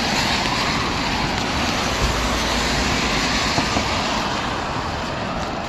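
Steady street traffic noise: a continuous hiss of passing road vehicles, with a low rumble about two seconds in.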